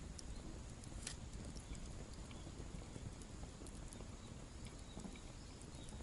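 Wood fire burning in a small stainless steel fire stand, crackling faintly with scattered pops and one sharper crack about a second in.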